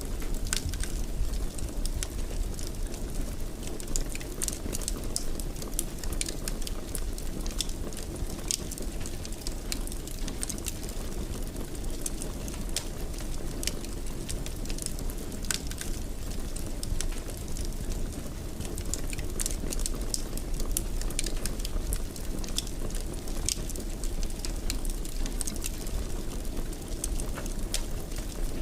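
Wood fire crackling in a fireplace: a steady low rush of flame with frequent small, sharp pops and snaps.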